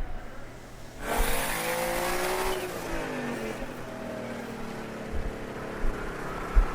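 Two street-racing cars, a Corvette and a Mustang, launching and accelerating hard. The engine noise starts suddenly about a second in and rises in pitch, then drops away around three seconds in, leaving a quieter, steadier engine sound.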